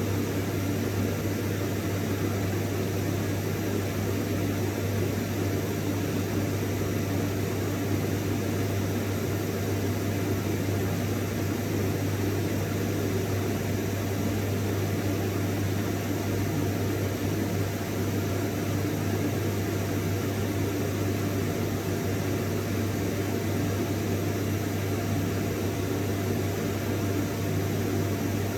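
Vacuum cleaner running steadily, a constant motor hum with a strong low drone under an even airflow hiss.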